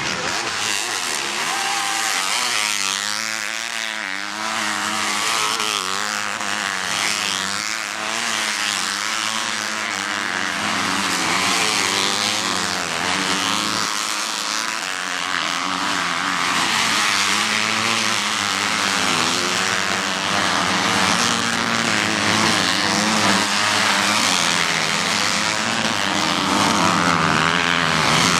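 Motocross bike engines racing, several at once, their pitch rising and falling as the riders rev up and back off.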